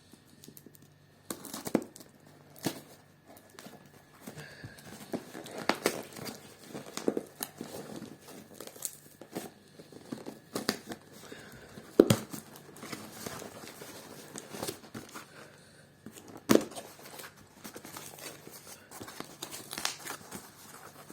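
Parcel packaging being torn open and crumpled by hand: irregular rustling and crinkling with scattered clicks, and two sharp knocks, one about halfway through and one a few seconds later.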